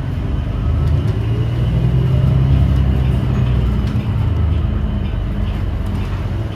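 Cabin ride noise of a New Flyer XDE40 diesel-electric hybrid city bus under way: a loud, low drivetrain hum that swells about a second in and eases after about four seconds.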